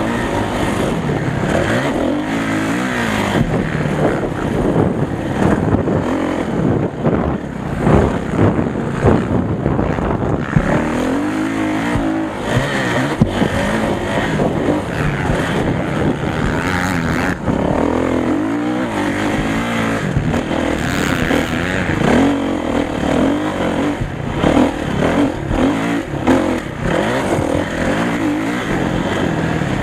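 Motocross motorcycle engines revving up and down as the bikes ride the track, the pitch rising and falling again and again with several engines overlapping.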